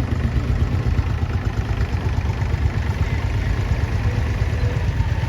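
Vintage tractor engines idling: a steady, low, even engine sound.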